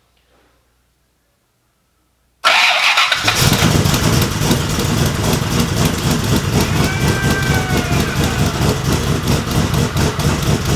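Factory Five Cobra replica's V8 engine firing on its first start, after the distributor had been reset, then running loud and steady. It catches suddenly about two and a half seconds in.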